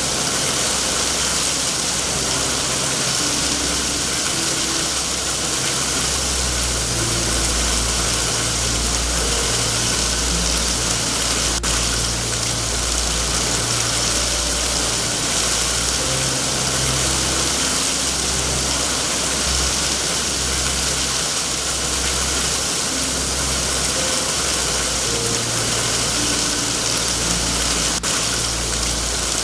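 Steady rain hiss over a continuous low, wavering rumble, with two sharp clicks, one about twelve seconds in and one near the end.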